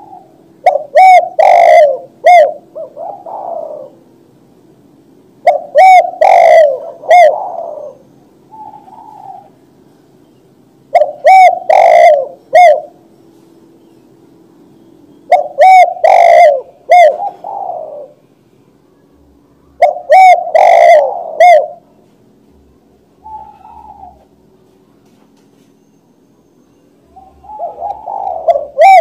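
Spotted dove (tekukur) cooing: a phrase of several loud coos, repeated six times about every five seconds.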